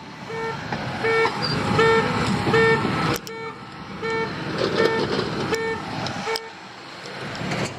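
Reversing alarm on construction equipment beeping at an even pace, about nine beeps in six seconds, then stopping. A machine's engine runs underneath.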